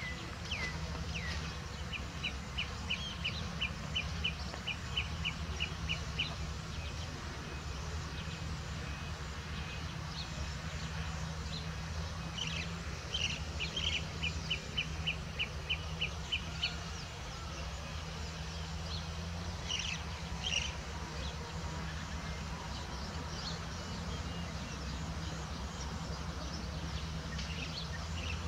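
A bird calling in fast runs of short, evenly spaced high notes, about three a second, twice for several seconds each, with a few other scattered chirps, over a steady low rumble.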